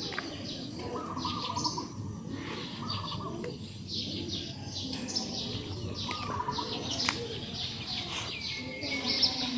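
Several birds chirping in quick, repeated bursts of short high notes, over a steady low background noise.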